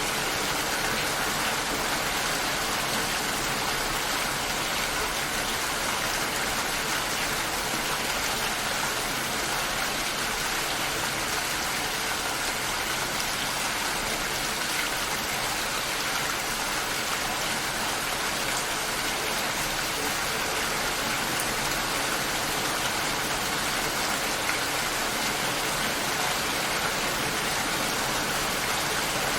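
Steady rain shower falling and pattering on surfaces, an even hiss with no distinct drops standing out.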